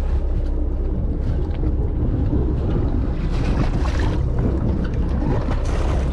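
Steady low rumble of a charter fishing boat at sea, with wind buffeting the microphone and swelling twice, about three seconds in and near the end.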